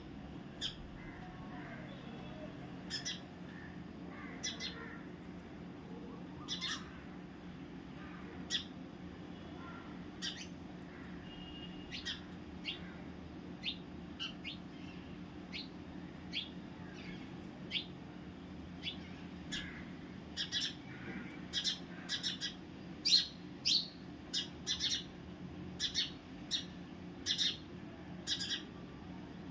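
Small birds chirping: short, sharp, high chirps, scattered at first and coming faster and louder over the last ten seconds, over a steady low hum.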